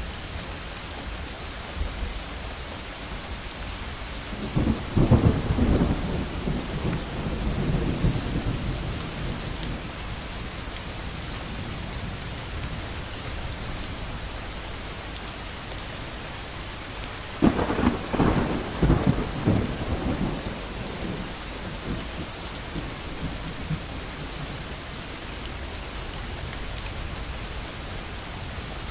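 Thunderstorm: steady rain with two rolls of thunder. The first builds about five seconds in and rumbles for several seconds; the second breaks with a sudden crack about 17 seconds in and rumbles away over a few seconds.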